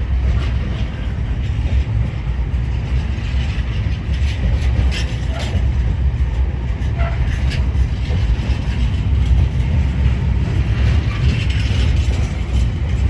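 A Class 66 diesel-hauled freight train rolling through the station with a steady low rumble, with occasional wheel squeals and clicks. A station public-address announcement is faintly heard over it.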